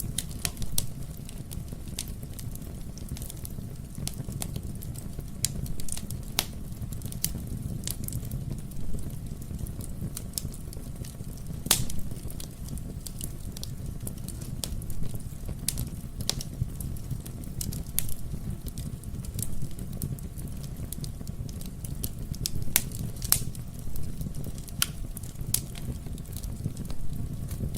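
Wood fire burning in a fireplace: irregular sharp crackles and pops over a steady low rumble of the flames, with one louder pop about twelve seconds in.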